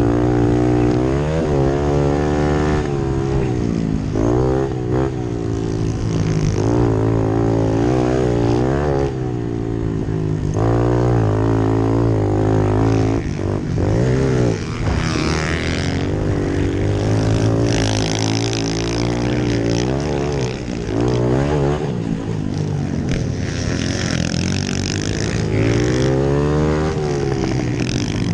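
Pit bike engines racing, revving up and falling back again and again over a steady low engine drone.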